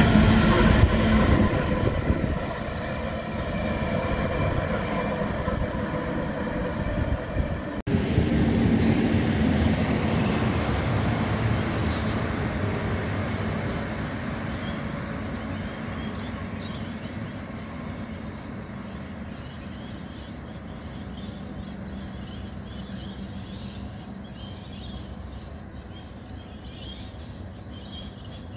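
Coal train hopper wagons rolling past with a steady wheel squeal. After a sudden break, a two-car diesel passenger railcar rolls by with a brief high squeal about twelve seconds in, then fades steadily as it moves away.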